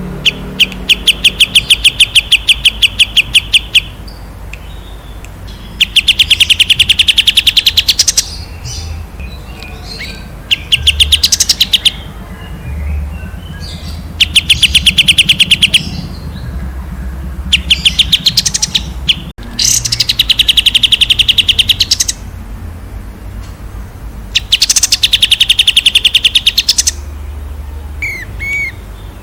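A songbird singing loud, rapid high-pitched trills, each lasting about two seconds and repeated about seven times with short pauses between, plus one short up-and-down whistled note near the end.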